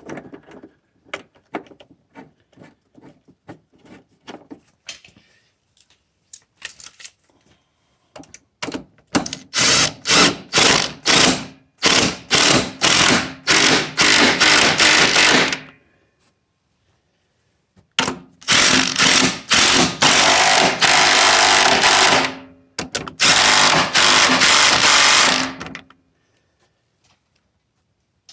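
A power tool driving a motor-mount bolt home in stop-start bursts and longer runs, twice, after a stretch of light rapid clicking as the bolt is started.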